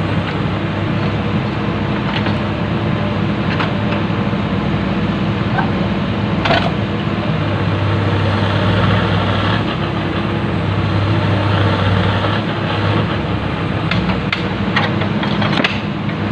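Komatsu PC-200 excavator's diesel engine running steadily, with a few sharp metallic knocks, one about halfway through and several near the end.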